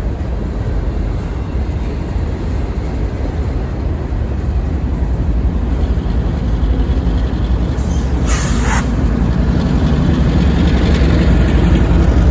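Freight train running by: a steady low rumble of diesel locomotive and rail cars that grows a little louder, with a short hiss about eight seconds in.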